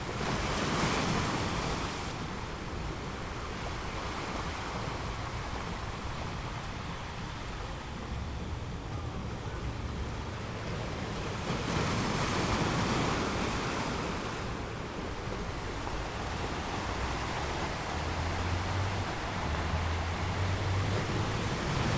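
Ocean surf: a steady wash of waves with a breaker swelling louder about every ten seconds.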